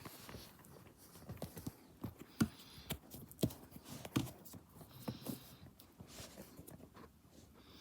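Front-loading washing machine drum turning early in a wash cycle, with irregular knocks and clicks as the load tumbles inside, loudest in the middle of the stretch.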